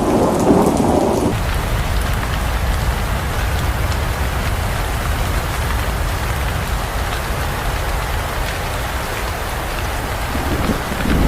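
Heavy rain falling steadily in an even hiss. A rumble of thunder cuts off suddenly about a second in, and another begins to build near the end.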